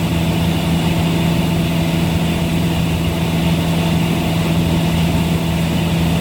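Steady drone of a Cessna 172's four-cylinder Lycoming engine and propeller in flight, heard inside the cabin.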